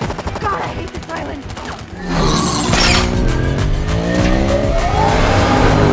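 Rapid gunfire for about the first two seconds, then a car engine revving up with tyres squealing.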